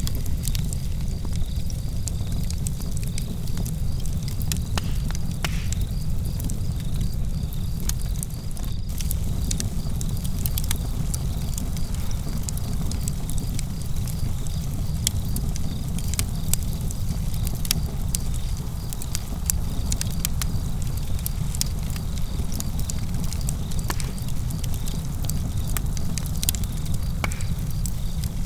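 Outdoor campfire crackling, with many sharp pops and snaps scattered irregularly over a steady low rumble. Crickets chirp steadily in the background.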